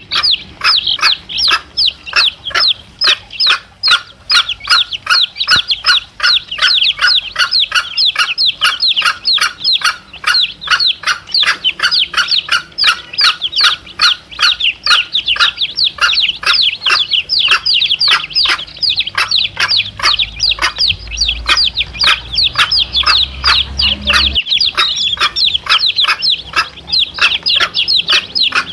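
Domestic chicks peeping without pause: short, high, falling chirps about three a second.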